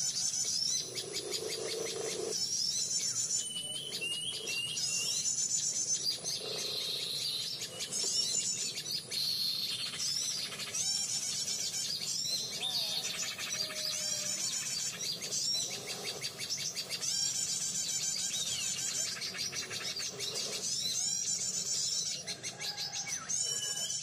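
Birds calling, mostly a rapid high-pitched chattering that comes in repeated bursts every second or two, with short sweeping calls mixed in.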